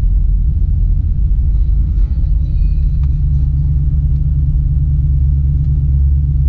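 Holden Caprice's 6.2-litre LS3 V8 with a custom-grind cam idling through a full Pacemaker exhaust with headers, high-flow cats and twin 3-inch pipes. It makes a loud, deep, slightly uneven rumble that settles into a steady idle about two and a half seconds in.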